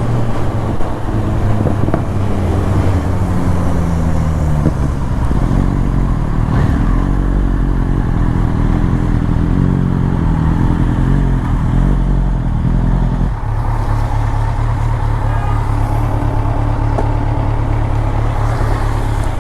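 BMW S1000RR inline-four engine running through an Akrapovic Evolution exhaust, a steady low engine note whose pitch shifts over the first several seconds. About thirteen seconds in, the upper part of the note drops away and the sound becomes plainer and steadier.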